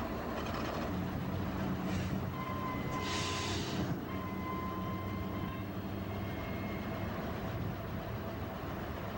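Diesel-hauled freight train running with a steady low engine rumble. A short burst of hissing air comes about three seconds in, and faint high squealing tones come and go around it.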